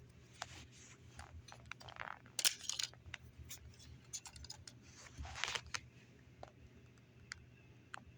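Plastic Lego pieces being handled and pulled off a model: scattered light clicks and short scraping rustles, with a cluster about two and a half seconds in and another about five and a half seconds in.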